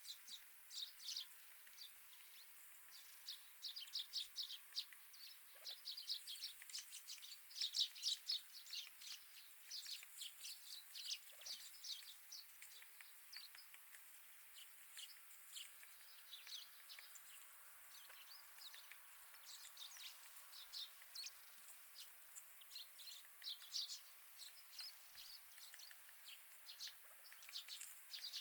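Wild birds at a winter feeder chirping and calling faintly: many short, high notes in quick clusters, busiest in the first half and thinning out toward the middle before picking up again near the end.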